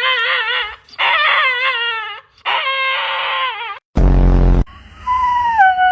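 Dog coming round from anesthesia crying in long wavering, quavering cries, one after another, broken about four seconds in by a short, loud harsh burst, then a long howl that drops in pitch near the end. Such vocalising is typical of a dog emerging from anesthesia.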